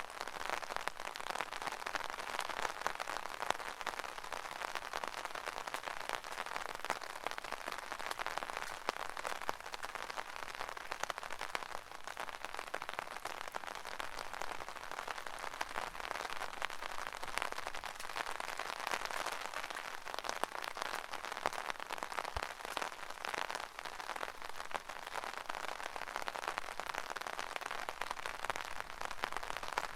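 Steady rain pattering on an umbrella canopy, a dense continuous patter of many small drop impacts.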